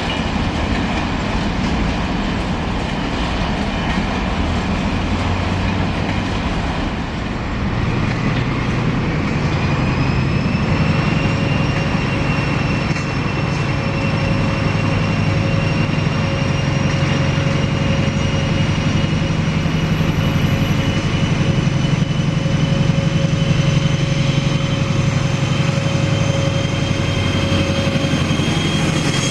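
A train running: a steady rumble with thin whining tones that rise slowly in pitch from about ten seconds in.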